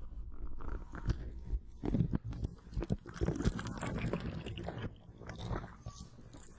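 Cooling gel patch being wrapped and pressed against the microphone: close, irregular crackling and clicking, busiest in the middle and thinning out near the end.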